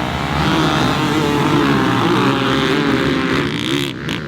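Motocross dirt bike engines revving up and down in a race, with the pitch rising and falling as riders work the throttle. The sound dips briefly about four seconds in.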